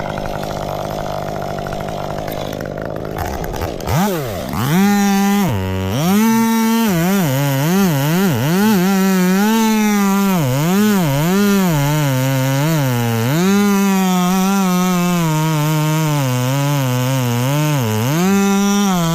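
Chainsaw running at a steady low speed, then from about four seconds in revved up and down over and over, its engine pitch rising and falling roughly once a second.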